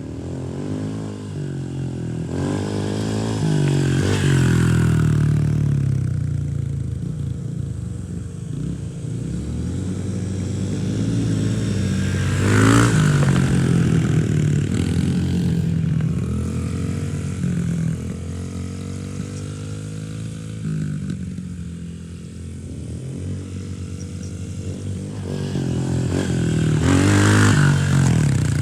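Dirt bike engine running under riding, its pitch rising and falling again and again as the rider opens and closes the throttle. It is loudest about twelve seconds in and again near the end.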